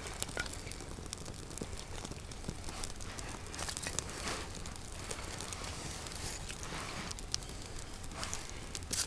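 Newly lit campfire catching in birch bark and kindling, crackling with scattered sharp pops and crackles.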